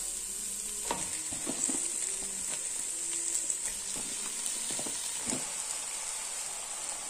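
Onion-tomato masala sizzling steadily in hot coconut oil in a non-stick pot, with a few soft knocks as raw chicken pieces go into the pan.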